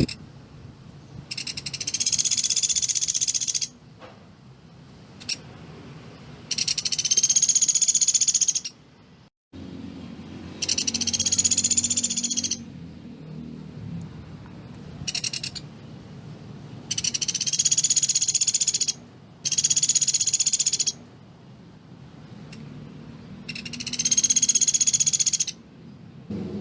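Pelatuk beras (a woodpecker kept as a songbird) calling in high, rapid rattling trills, about six bouts of roughly two seconds each with short gaps, plus a couple of brief snatches between them.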